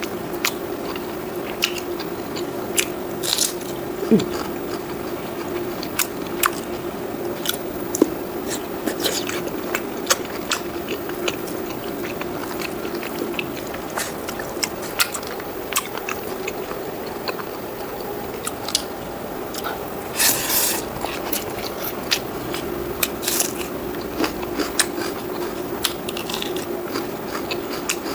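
Close-miked eating: crunching bites and chewing of fried pork with rice, with scattered sharp clicks and a few louder crunches.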